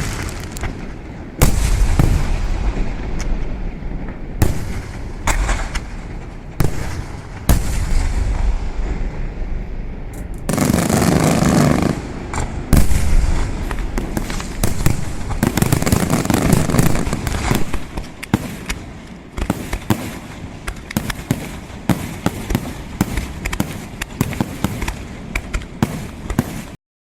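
Fireworks display: a rapid run of shell bursts and bangs, one after another. About ten seconds in there is a dense, loud stretch of overlapping bursts, followed by many quick pops. The sound cuts off abruptly just before the end.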